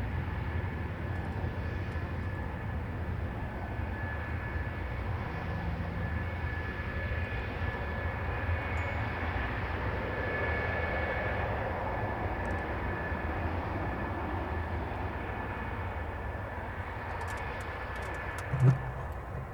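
Jet aircraft engine running steadily: a low rumble with a thin high whine. A short, loud low thump comes near the end.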